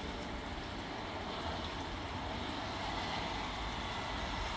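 Steady rain falling, an even hiss that grows slightly louder over a few seconds, with a low rumble underneath.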